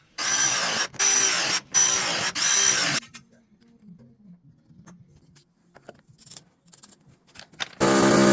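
Power drill run in four short bursts, each spinning up and winding down, then a few faint clicks and knocks, and another run of the drill starting near the end.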